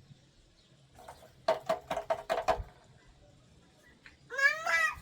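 A cat meows once near the end, a long call that rises and then falls in pitch. Before it, about halfway in, there is a quick run of short sharp sounds.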